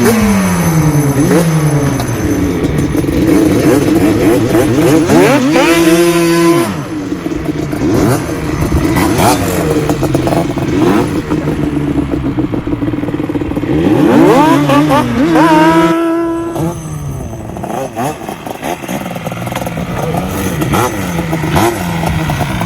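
Yamaha Banshee's 350 cc twin-cylinder two-stroke engine, breathing through a MOTOFAST 2-into-1 expansion pipe, riding hard: it revs up and down through the gears, twice climbing to a high held pitch, about five seconds in and again about fourteen seconds in, then dropping off sharply.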